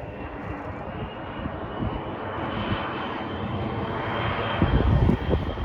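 Aircraft engine noise with a steady high whine, growing steadily louder as the aircraft approaches.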